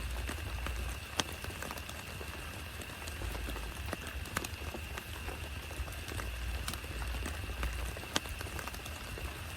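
Heavy rain falling, with many scattered sharp drop impacts over a steady hiss. A faint steady high tone and an irregular low rumble run underneath.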